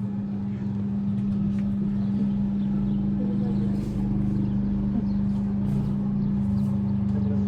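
Steady drone of a car's engine and road noise heard from inside the moving car, with an even low hum throughout.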